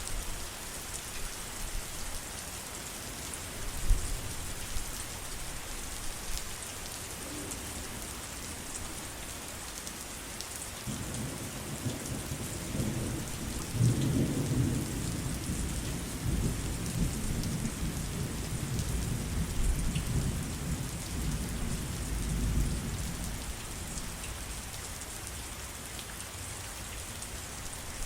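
Steady heavy rain falling. About ten seconds in, a long low roll of thunder builds, peaks soon after and rumbles away over roughly ten seconds.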